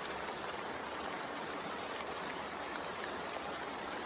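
Steady rain falling, an even hiss of drops with no distinct events.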